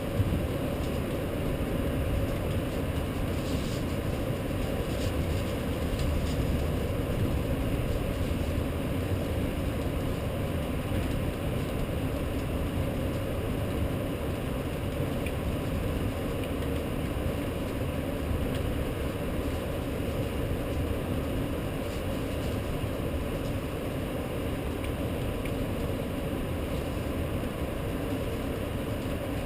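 Steady rumbling ambience of a rainstorm over a city, even throughout, with a few faint ticks a few seconds in.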